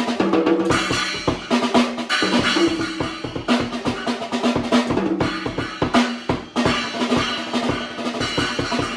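Children's toy drum kit played in a quick, steady beat of bass drum and snare hits. The drums are rigged to sound deeper: a rag is taped to the back of a drum, and a felt-like nail file stands in as the bass-pedal beater.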